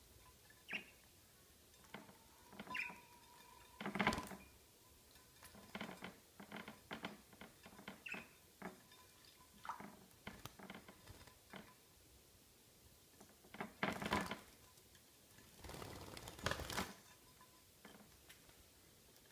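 Budgies bathing: irregular bursts of splashing and fluttering, the biggest about four seconds in and again near the end, with a few brief chirps between.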